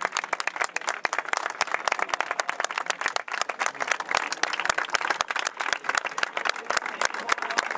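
A crowd applauding: a dense, steady clatter of many hands clapping.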